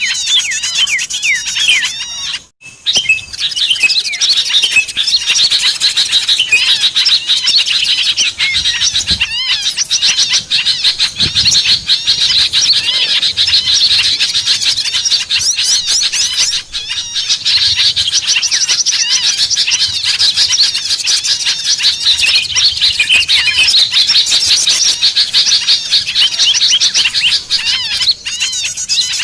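A dense, loud chorus of many small songbirds chirping and twittering over one another without pause, a bird-lure recording meant to draw wild small birds down. It breaks off for an instant about two and a half seconds in.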